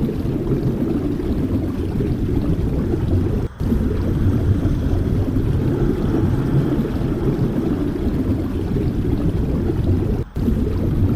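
Strong wind buffeting the microphone: a loud, continuous low rumble, broken twice by a momentary dropout.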